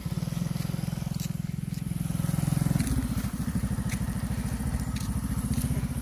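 Small motorcycle engine running at low speed, an even chugging pulse whose note shifts slightly about halfway through, with a few faint clicks over it.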